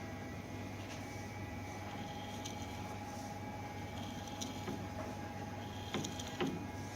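Colchester Student lathe running steadily with the 3-jaw chuck turning, a constant low hum under a steady whine, during a runout check of the chuck. A couple of sharp clicks come near the end.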